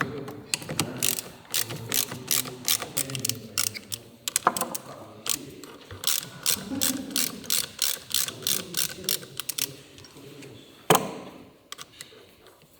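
Hand ratchet wrench clicking in a long series, about three to four clicks a second, while working a fastener on the engine. One loud, sharp metal knock follows near the end.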